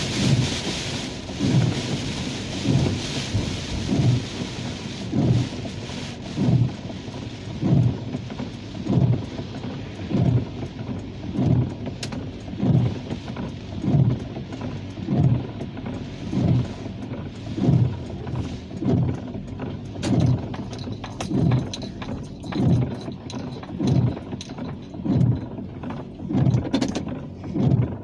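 Windshield wipers sweeping at a steady pace, a low thump about once a second, with rain hissing on the car that eases off after the first few seconds.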